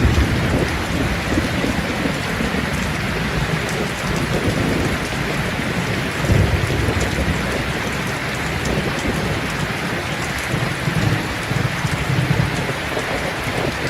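Steady, heavy rain falling, with low rumbles of thunder rising and fading a few times: near the start, about six seconds in, and again around eleven to twelve seconds.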